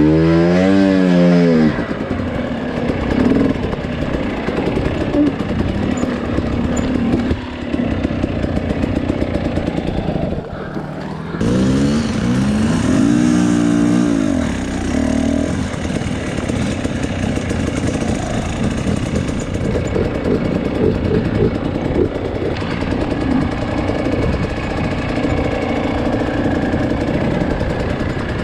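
Two-stroke dirt bike engine running under a rider's throttle, revving up and down in pitch with a sharp rise and fall near the start and another about twelve seconds in. It drops off briefly around ten seconds, then carries on at a steady working note.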